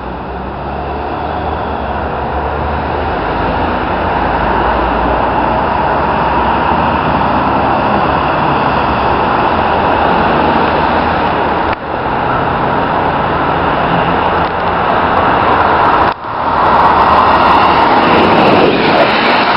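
An ÖBB Railjet express train running through the station at speed: a steady rush of rail and wind noise that builds and is loudest as it passes near the end, with two brief breaks at about 12 and 16 seconds.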